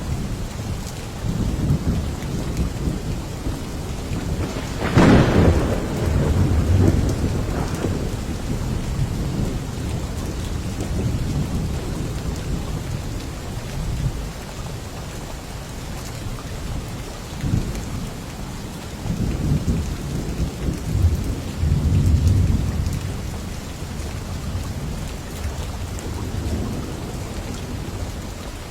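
Steady rain with thunder: a sharp crack about five seconds in, and low rumbles that swell and fade several times, strongest about 20 to 23 seconds in.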